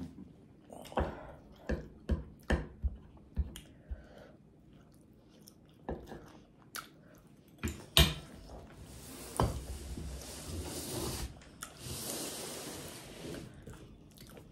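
Close-miked chewing with wet smacking, about two smacks a second for the first few seconds. About eight seconds in comes a sharp click, the loudest sound, then a few seconds of rustling hiss.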